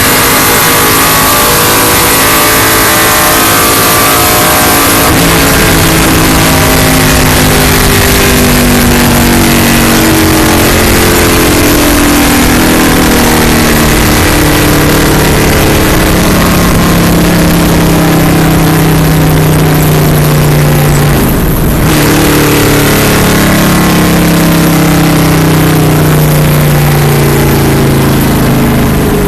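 Indy-style race car engine running hard at speed, with a loud rush of wind. Its note climbs slowly for most of the time, drops sharply once about twenty-one seconds in, then climbs again.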